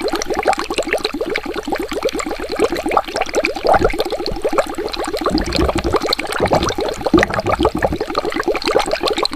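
Water bubbling continuously, a rapid, even run of bubbles popping many times a second, with a few deeper gurgles in the middle.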